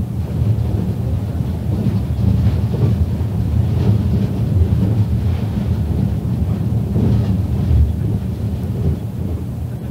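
Interior running noise of a JNR 485-series electric train at speed: a steady low rumble of wheels on rail and the running gear, heard from inside the passenger car.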